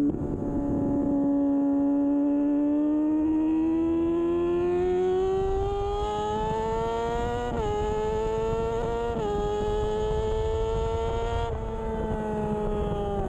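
2013 Kawasaki Ninja 636's inline-four engine running at high revs under race throttle. Its pitch climbs steadily for several seconds, then drops sharply and briefly twice, about a second and a half apart, in the second half.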